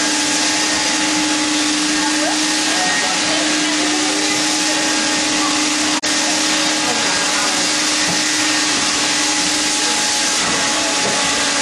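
Wet/dry shop vacuum with a 6.25 peak-horsepower motor running steadily with a whine. It breaks off for an instant about six seconds in.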